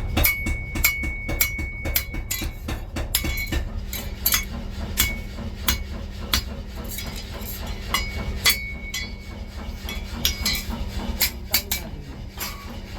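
Steel pieces clinking and knocking against metal in quick, irregular strikes, several leaving a short high ring. A low steady machine hum sets in about four seconds in.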